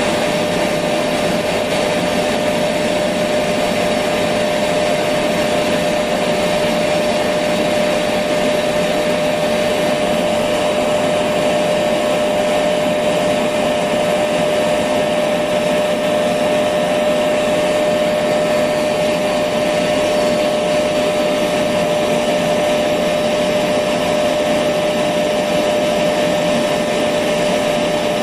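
Electric vacuum cleaner running continuously at a constant speed: a steady whooshing noise with a steady whine, unchanging throughout.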